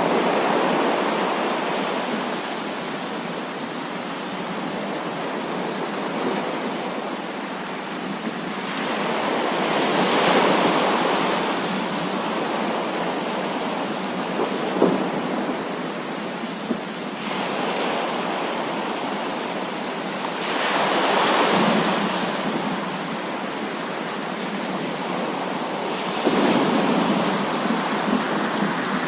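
Heavy rain falling steadily, with several slow rolls of thunder that swell and fade every few seconds. A single sharp crack comes about halfway through.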